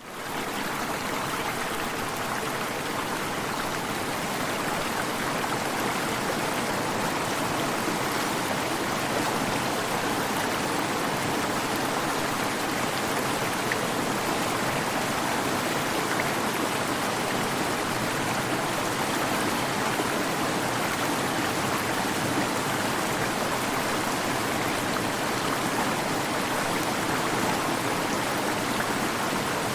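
Waterfall: a steady rush of falling water that fades in over the first half second and then holds level.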